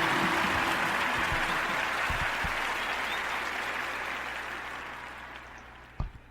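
Crowd applause, fading out slowly over about six seconds, with the last notes of music ending just as it begins. There is a short click near the end.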